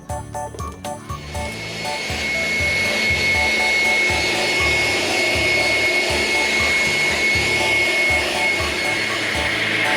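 A motor-driven machine starts up about a second in and runs steadily: a loud rushing noise with a thin high whine, over background music with a beat.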